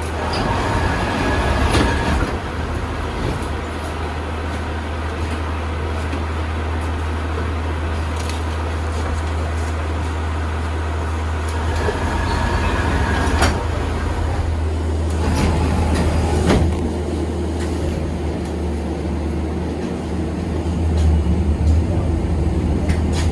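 KTM-8KM tram in motion, heard from inside the car: a steady low hum and wheel-on-rail rumble, with a few sharp knocks, about two seconds in and twice more past the middle.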